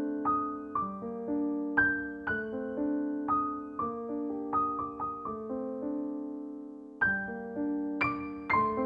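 Background piano music: a gentle melody of single struck notes over held chords, with one chord left to fade for about a second and a half before a new phrase begins near the end.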